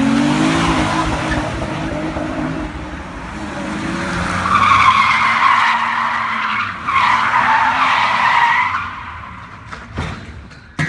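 A car engine revving up, then tyres squealing in two long wavering squeals with a short break between them, and a single short knock near the end.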